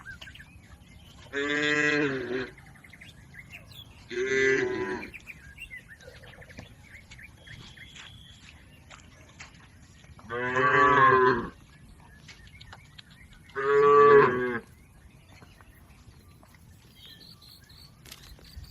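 Cows mooing: four long, full-voiced moos of about a second each, in two pairs several seconds apart.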